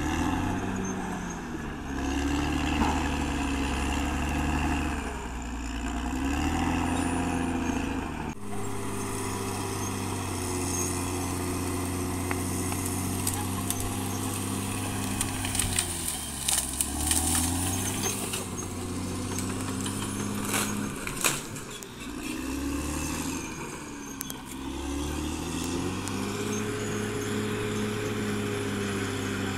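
Caterpillar D6R XL bulldozer's diesel engine running under changing load, its pitch stepping down and back up several times as it pushes and recovers. A run of clanks and rattles, typical of the steel tracks and blade, comes in about halfway through.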